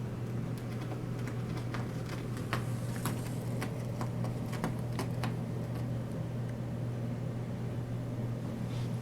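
A steady low mechanical hum, with scattered light clicks during the first five seconds or so.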